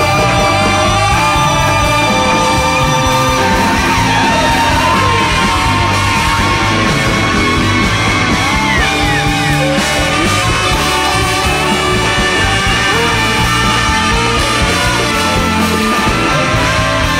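Large free-jazz big band with saxophones, trumpet, violin, keyboard, guitar, bass and two drummers playing loud, dense live music, with a voice singing over it. Several notes slide up and down partway through.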